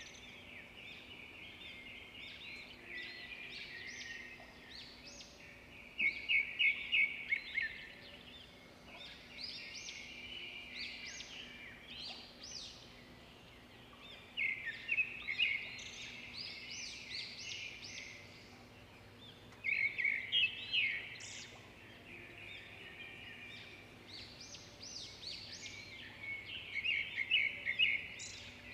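A bird singing: bursts of rapid, high chirps that come back every few seconds.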